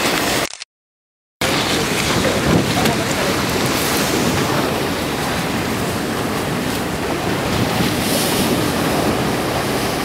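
Steady rush of ocean surf and wind buffeting the microphone. Near the start the sound drops out to dead silence for nearly a second, then resumes at the same level.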